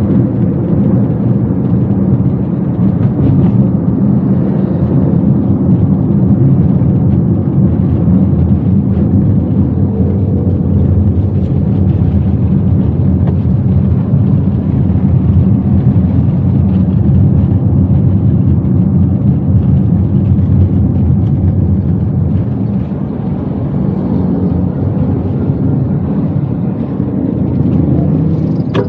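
Toyota Wigo driving along, heard from inside the cabin: a steady low rumble of engine and road noise.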